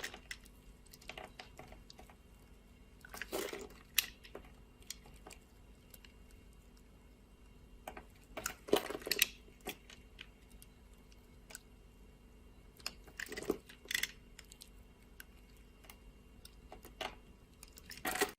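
Knife cutting into dry soap: crisp, crunchy cuts in short bursts every few seconds, with small scattered clicks between them.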